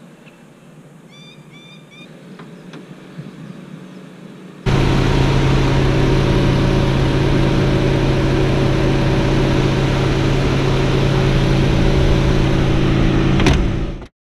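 2003 Lexus GS300's inline-six engine running steadily, a loud even hum with a rushing noise over it, cutting in suddenly a few seconds in. Before it there are only a few faint chirps, and there is a single click near the end.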